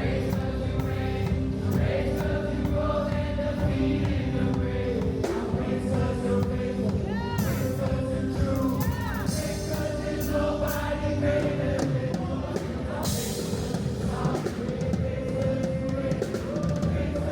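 Gospel music: a choir singing over a band.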